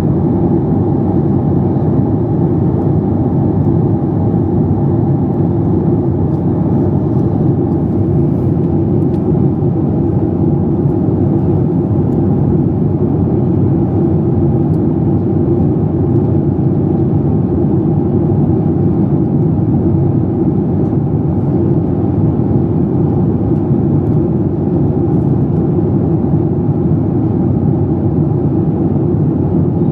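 Cabin noise of a Boeing 737 MAX 8 in flight: its CFM LEAP-1B engines and the air rushing past the fuselage, heard from inside the passenger cabin as a steady, unchanging drone.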